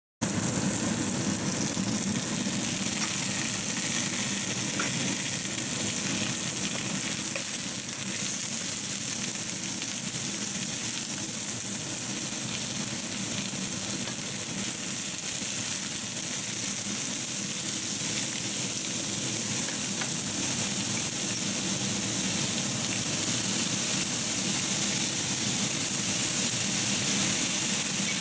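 Scored squid pieces with green chili and carrot slices sizzling steadily in hot oil in a frying pan as they stir-fry, a little louder over the last ten seconds.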